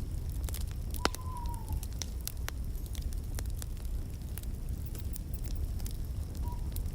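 Wood fire burning in a fireplace: a steady low rumble of flames with frequent sharp crackles and pops. A loud pop about a second in is followed by a brief whistle that falls slightly in pitch.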